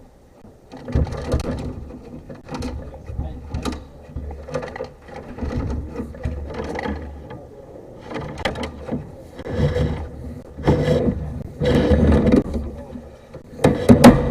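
Sewer inspection camera and its push cable being fed into a drain line, giving irregular bursts of rattling, knocking and scraping, with a few sharp clicks near the end.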